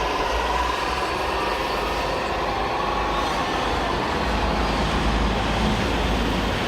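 Radio-controlled model trucks running: a steady, even mechanical drone with a faint steady whine in the first seconds.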